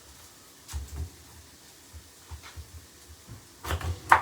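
Scattered knocks and taps of a knife and a pineapple on a kitchen chopping board as the fruit is handled and cut. The loudest is a sharp knock near the end.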